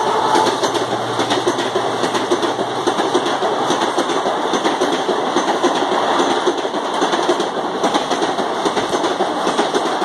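Passenger coaches of an express train rushing past at about 100 km/h: a steady, loud rush of wheels on rails with fast, continuous clatter.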